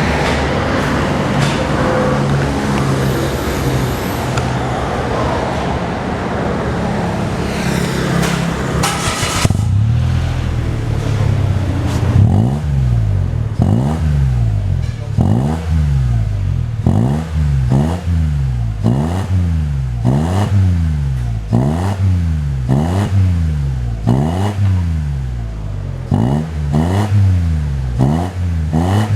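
Mitsubishi Mirage 1.2's three-cylinder engine through an aftermarket exhaust with a centre resonator and stainless rear muffler, running steadily at first, then revved in short repeated blips, about one every second and a half, from roughly twelve seconds in.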